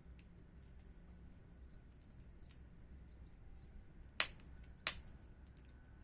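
Burning fire crackling with scattered small clicks and two loud sharp pops, about 4 and 5 seconds in.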